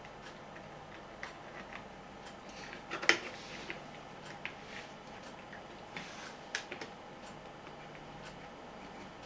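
Light clicks and taps of small plastic radio parts being handled and fitted together during reassembly, scattered and irregular, with the sharpest clicks about three seconds in and again about six and a half seconds in.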